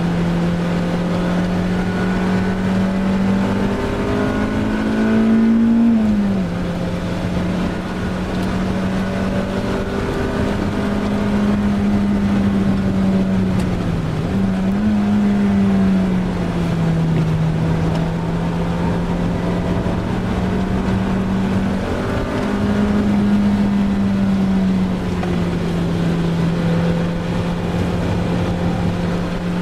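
Honda Civic Type R EP3's 2.0-litre four-cylinder engine heard from inside the cabin, held at high revs on track. Its pitch climbs, drops sharply and steps up and down several times as it is driven through the gears.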